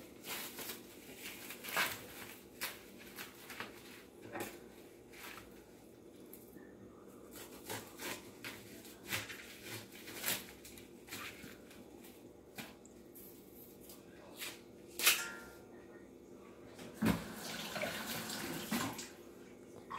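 Knife cutting up an onion: scattered short knocks of the blade, one or two a second, with a louder knock about fifteen seconds in and a couple of seconds of scraping and rustling soon after.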